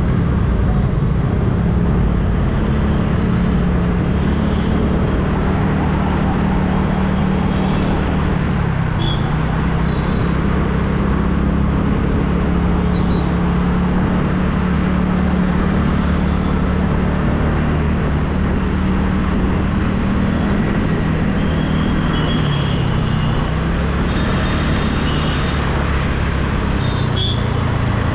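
TVS Ntorq scooter's single-cylinder engine running at a steady cruise, with continuous wind and road noise from riding. A few short high-pitched beeps come through now and then.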